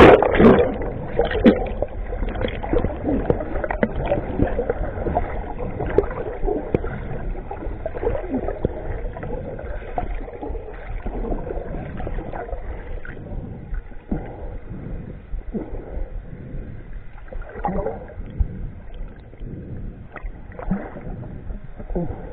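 A boat under way on the water: a steady, rough rumble of motor and water noise that starts abruptly with a loud burst.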